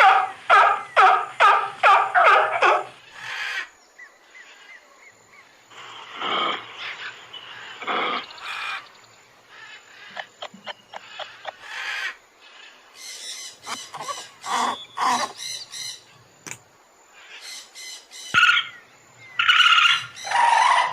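A run of animal calls, mostly bird-like chirps and calls. It opens with a rapid series of about seven loud calls in the first three seconds, followed by scattered calls of different kinds, including a quick chattering run about thirteen to fifteen seconds in.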